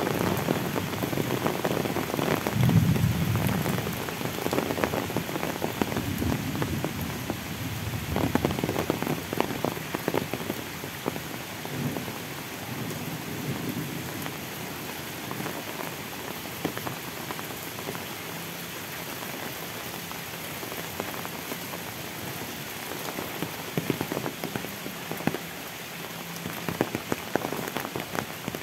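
Heavy rain falling steadily on leaves and a wet road, with scattered close drop ticks. It is louder in the first ten seconds and eases a little after that.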